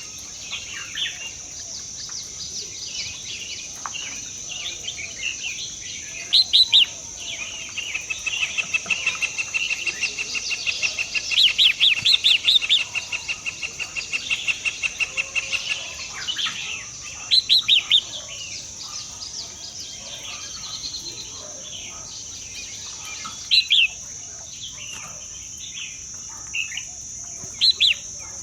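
Birds chirping and calling in short, sharp notes, with a fast rattling trill in the middle and several louder bursts of notes. A steady high-pitched drone runs beneath throughout.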